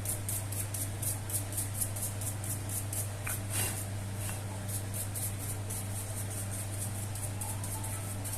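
Rapid scratchy scrubbing strokes, about three or four a second, as the dusty inside of an opened Logitech M331 mouse is cleaned, over a steady low hum.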